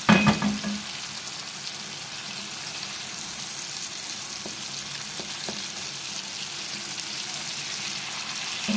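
A tomato-onion masala with pieces of brain sizzling steadily in a frying pan while a spatula stirs it. A loud clatter of the spatula against the pan comes right at the start, a few light taps follow in the middle, and another knock comes near the end.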